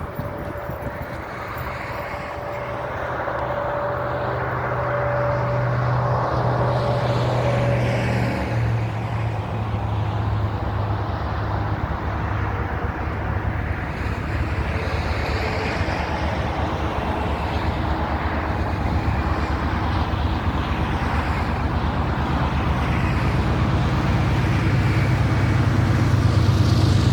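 Diesel locomotives of an approaching mixed freight train, their engines running with a steady low hum that grows gradually louder as they draw near.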